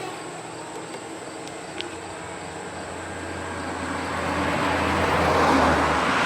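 Tao Tao 110cc four-stroke dirt bike running and coming closer, growing louder over the last few seconds.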